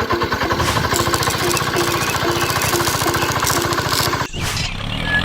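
A DIY mini tractor's small engine running fast with a rapid, even chatter. About four seconds in, the sound cuts abruptly to a smoother, lower engine hum.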